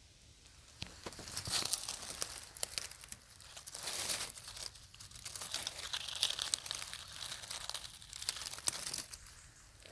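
Dry fallen leaves crunching and rustling: a dense run of crackles that swells and fades about once a second.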